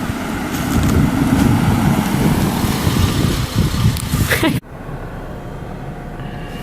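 Car running with rumbling road and engine noise that cuts off abruptly about four and a half seconds in, leaving a much quieter steady hum.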